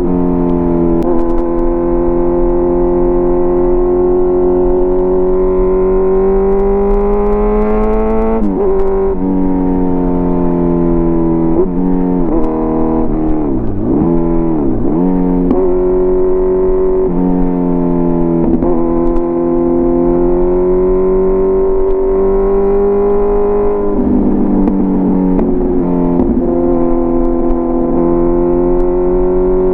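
Kawasaki Z900 inline-four engine through an SC-Project CRT aftermarket exhaust, running under load as the bike is ridden. The note climbs slowly, drops sharply about eight seconds in and again near the end, and has two quick dips in pitch in the middle, like gear changes and throttle lifts.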